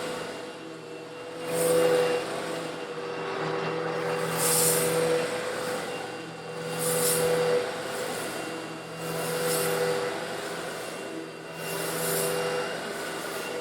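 Eureka vacuum cleaner running steadily while sucking up coarse stone granules; about every two and a half seconds a surge of granules rattles and hisses through it.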